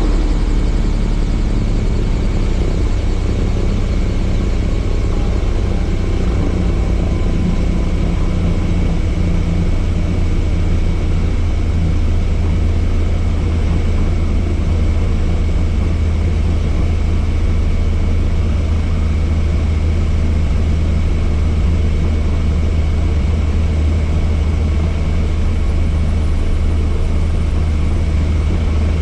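Helicopter in steady flight: a loud, unbroken drone of rotor and engine, heavy in the low end, with a thin steady high whine over it.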